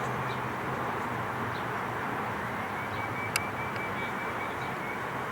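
Steady outdoor background noise with one sharp crack a little over three seconds in.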